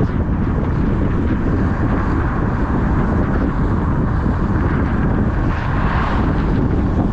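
Steady rumble and hiss of a car driving on wet pavement, tyres running through water, with a brief swell of hiss about six seconds in.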